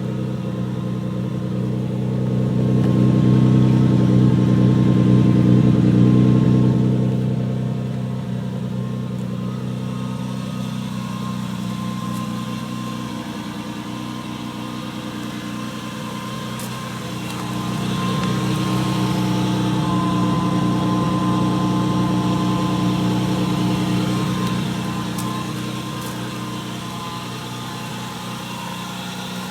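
Nissan RB26DETT twin-turbo straight-six engine running at a steady pitch, swelling louder twice for several seconds each time.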